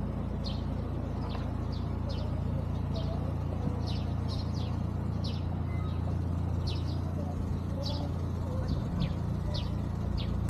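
Small birds chirping, short high notes that drop in pitch, two or three a second, over a steady low rumble.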